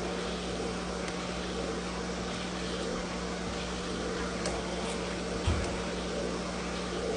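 Vacuum motor running with a steady hum, powering a FurMe grooming comb attachment that draws the loose fur into the hose. A few light ticks and a soft bump come about four and a half to five and a half seconds in.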